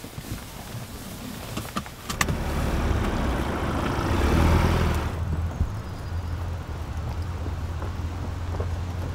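Patrol car engine running and pulling away after a couple of clicks, the noise swelling for a few seconds. About five seconds in it cuts off suddenly, leaving a steady low hum.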